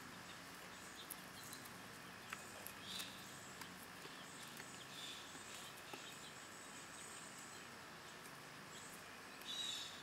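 Quiet outdoor background with a few short, faint bird chirps, three in all, the last and loudest near the end, and scattered small clicks.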